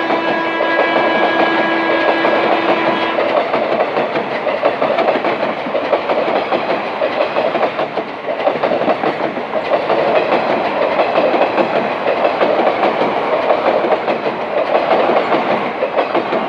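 Passenger train of ICF coaches passing at speed, the wheels making a rapid, dense clickety-clack over the rail joints. The noise drops off near the end as the last coach goes by. Background music with held notes fades out about three seconds in.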